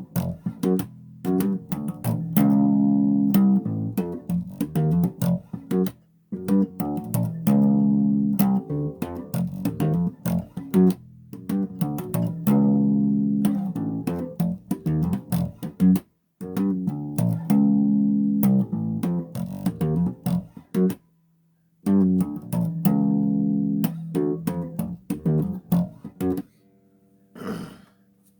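Solo bass guitar played unaccompanied: runs of plucked notes in phrases, with brief pauses between them and a quieter stretch near the end.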